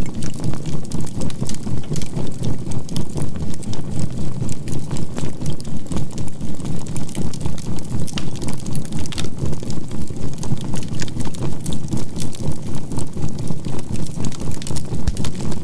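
Low synthesized drone pulsing evenly about four times a second, a binaural-beat relaxation track with a faint steady 528 Hz tone, over the scattered crackle of burning charcoal in a campfire.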